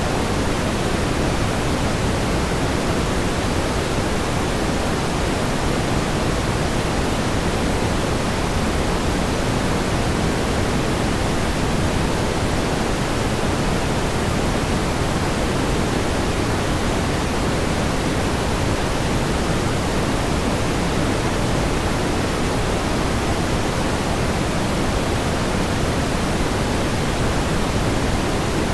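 Steady pink noise: an even hiss without tones or events, heavier in the low end and softer in the highs, at a constant level.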